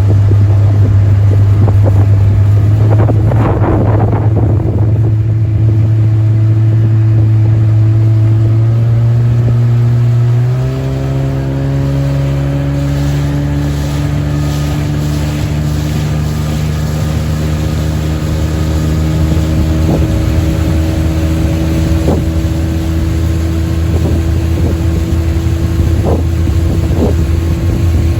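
Motorboat engine running steadily; about ten seconds in its note changes abruptly and then rises slowly.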